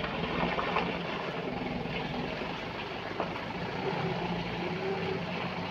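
A large engine running steadily at an even idle, with a constant low hum and a few faint clicks over it.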